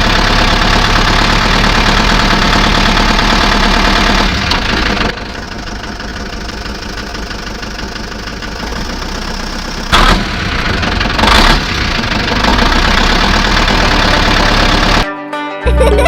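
An engine running steadily, dropping in level about five seconds in, with two short knocks about ten and eleven and a half seconds in. It stops suddenly near the end.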